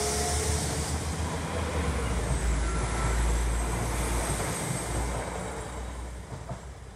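West Midlands Railway diesel multiple unit passing over the level crossing at speed: a steady rumble of engines and wheels on the rails that fades from about five seconds in as the last carriage goes by.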